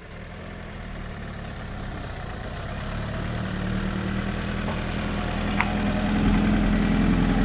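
Car engine running at low revs as a VAZ-2107 Zhiguli drives slowly across a grassy field towards the camera, its steady hum growing louder.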